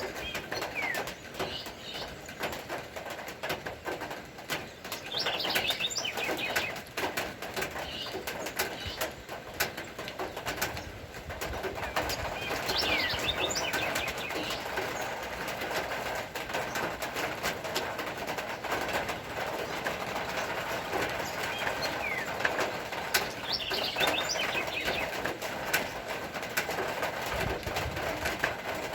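Steady rain falling, with a constant patter of drops. A bird calls three times over it, each time in a short cluster of quick, falling chirps.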